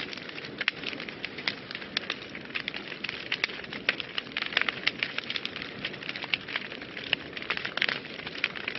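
Wood fire burning in a fireplace, with many irregular crackles and pops, several a second, over a steady hiss.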